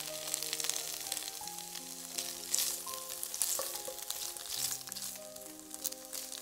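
Tofu cubes sizzling and crackling as they fry in oil in a nonstick pan, stirred with a wooden spoon, over soft background music of held notes.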